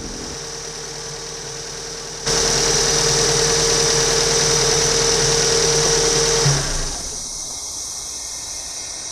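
Mazda MX5's 1.8 DOHC 16-valve four-cylinder engine idling steadily on its first start with newly fitted RX8 injectors. It is heard louder from about two seconds in and drops back a little before seven seconds.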